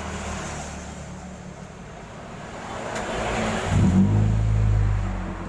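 Toyota Soluna GLI's four-cylinder engine idling through a newly fitted JS Racing aftermarket exhaust tip, with the middle silencer still in place. About three and a half seconds in, it is revved once, held for about a second, and then falls back toward idle.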